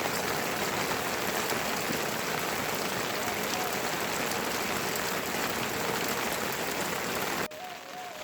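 Heavy rain falling, a loud steady hiss that cuts off suddenly near the end.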